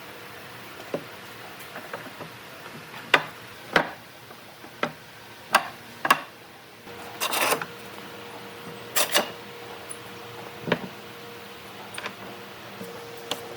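Irregular knocks and clicks, as of wooden workpieces and hand tools being picked up and set down, about a dozen of them with a brief scraping sound about halfway through. A faint steady hum joins about halfway in.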